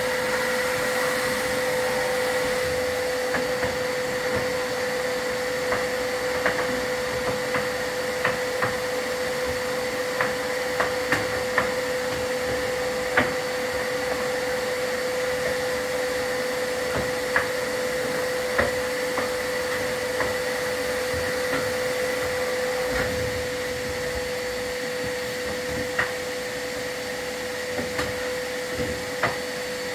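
A vacuum cleaner running steadily with a constant whine, while sharp knocks and taps come at irregular moments, a dozen or so over the stretch.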